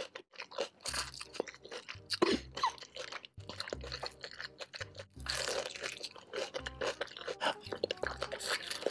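Close-miked crunching and chewing of crispy deep-fried chicken coated in spicy red sauce, a run of crisp bites and wet mouth sounds.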